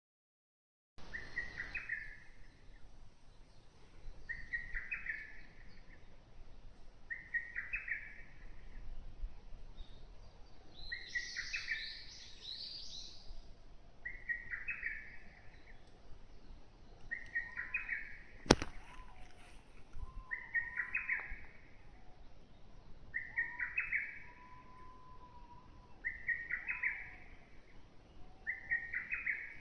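A woodland bird singing the same short phrase over and over, about every three seconds, with a second bird's higher twittering joining briefly about eleven seconds in. A single sharp click about eighteen seconds in is the loudest sound.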